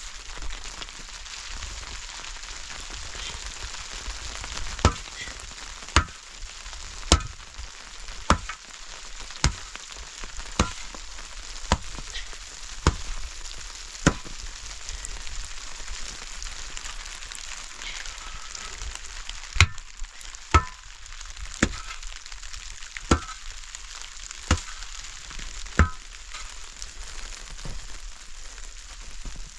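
A steady sizzling hiss with sharp knocks about once a second, pausing for a few seconds midway.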